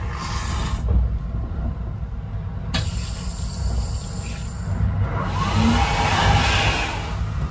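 Kintetsu Hinotori limited express train running with a steady low rumble, overlaid by three bursts of rushing hiss: a short one at the start, a sudden one about three seconds in, and the loudest near the end.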